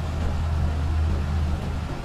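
Motorcycle engine running steadily at low riding speed, a steady low hum.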